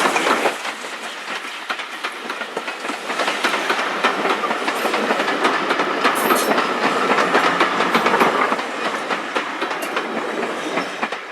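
A heritage train's coaches or wagons passing close by, wheels clattering over the rail joints. A steady high ring joins in partway through, and the sound cuts off suddenly at the end.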